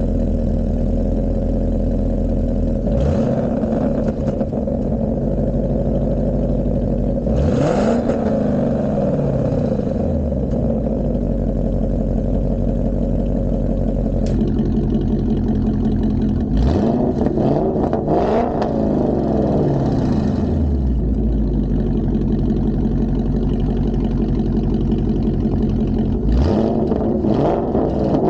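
2021 Ford Mustang GT's 5.0 V8 with a Borla ATAK cat-back exhaust idling, then revved several times, each rev climbing and falling back to idle.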